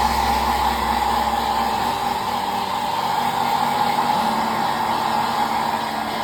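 Hair dryer running steadily. A low hum beneath it drops away about two and a half seconds in.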